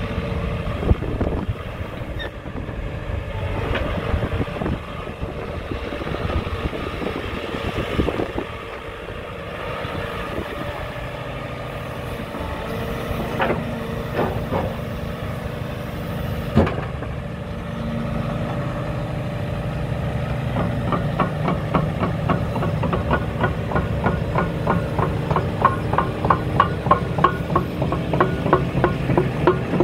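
JCB JZ141 LC tracked excavator's diesel engine running steadily, with a few sharp knocks in the middle. About two-thirds of the way in, a quick, even clatter joins it and grows louder.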